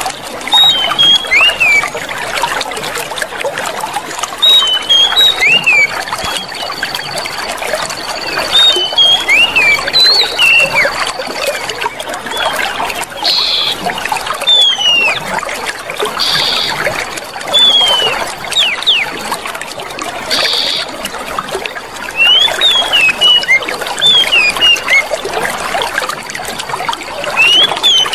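Clear running water trickling and splashing steadily, with small birds calling in short, quick whistled notes, mostly falling, every second or two.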